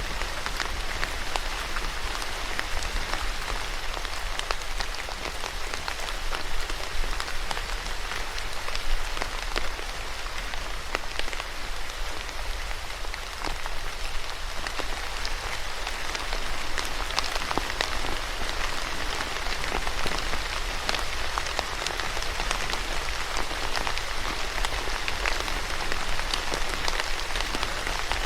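Steady rain falling on a hard surface, a dense hiss with many individual drops ticking through it.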